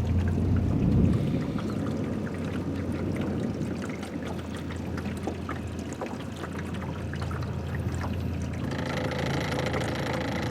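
Small boat's outboard motor running at low speed with a steady hum, a little louder about a second in, while water washes along the hull.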